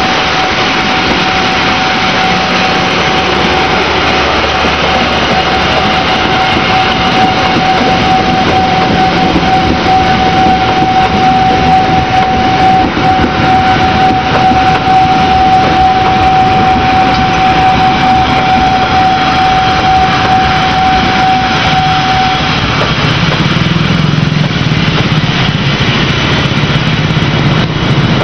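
Passenger train running past, wheels rumbling on the rails, with a steady high-pitched tone that cuts off about 22 seconds in; after that a low engine hum is left.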